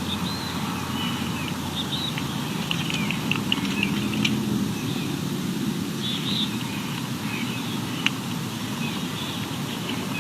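Short high bird chirps come and go over a steady low rumble.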